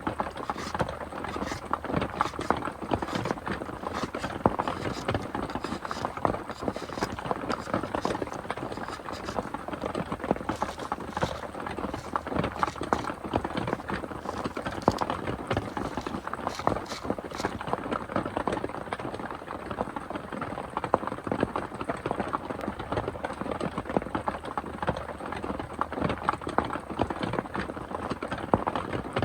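Heavy rain falling, a dense steady patter of many drops hitting hard surfaces.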